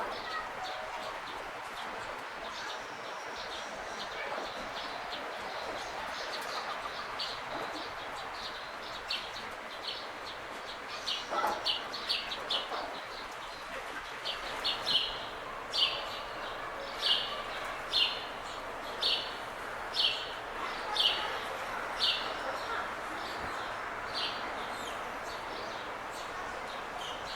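A bird calling over and over with short, sharp, high chirps, about one a second through the middle and later part, over a steady background hiss.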